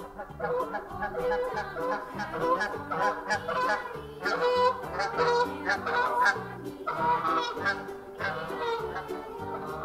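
Geese honking repeatedly, with several calls overlapping.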